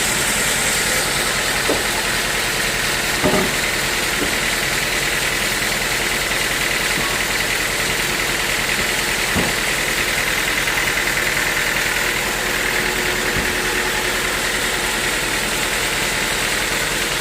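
Sawmill machinery running steadily, a constant hum and hiss, with a few short knocks scattered through it.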